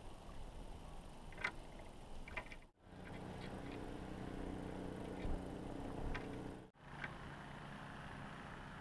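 A low, steady motor hum, with a few short, high chirp-like calls over it.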